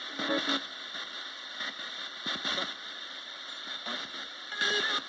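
Roberts radio used as a ghost box, giving steady static hiss broken by three short bursts of sound, near the start, about halfway through and near the end.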